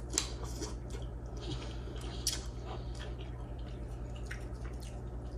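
Wet eating sounds of soupy instant noodles being chewed, with brief scattered smacks and clicks over a steady low hum.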